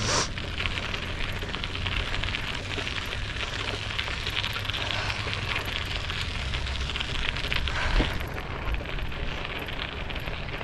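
Wind rushing over a head-mounted GoPro's microphone while cycling, a steady crackling rush. A single knock about eight seconds in.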